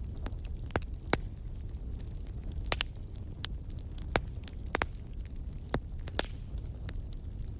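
Wood fire burning in a fireplace: a steady low rumble of the flames with scattered sharp crackles and pops, about a dozen.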